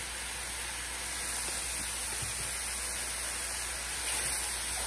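Sliced mushrooms sizzling steadily in oil in a frying pan, as a continuous hiss. It gets a little louder about four seconds in, as the mushrooms are stirred.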